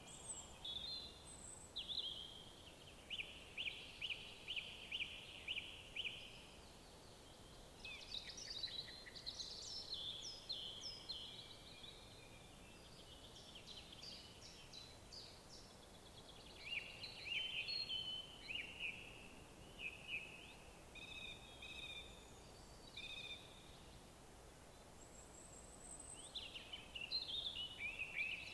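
Woodland songbirds singing: several bursts of quick, high chirps and trills with short pauses between, over a faint steady background hiss.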